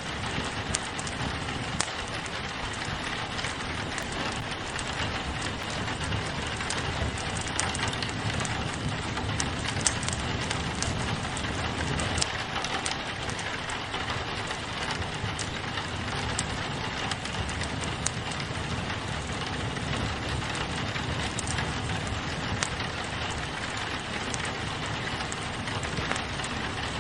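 Steady rain pattering on a window, mixed with a wood fire crackling: a continuous hiss with scattered sharp pops and crackles throughout.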